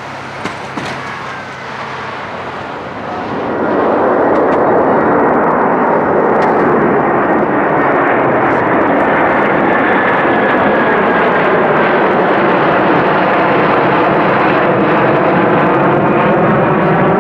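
Rolls-Royce Trent 700 turbofans of an Airbus A330-300 at takeoff power as it climbs out. A whine falls in pitch, then about three and a half seconds in a loud roar swells up and holds steady.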